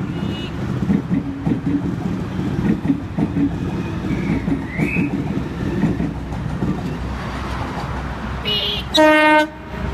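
Sydney Trains Waratah electric train rumbling and clattering over the rails, then one short, loud horn blast about nine seconds in.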